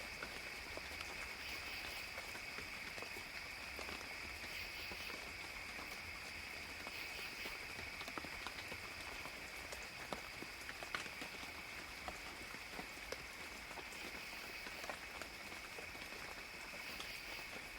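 Forest rain ambience: light rain with scattered drops, over a steady high-pitched insect chorus.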